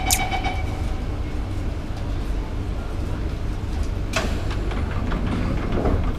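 Inside a Singapore MRT train carriage: the pulsing door-closing warning tone fades out about a second in, leaving the steady low rumble of the train running, with a sharp clack about four seconds in.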